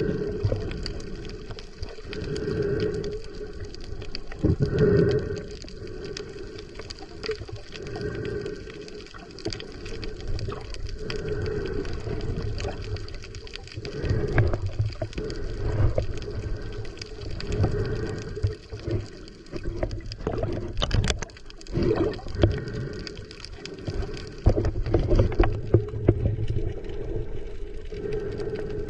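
Muffled underwater sound from a camera in the sea while snorkeling: water sloshing and bubbling, with many small clicks and swells.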